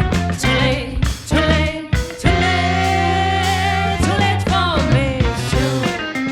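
A live band playing with singing: a steady drum beat and bass under a pitched line, with one long held note about two seconds in that lasts under two seconds.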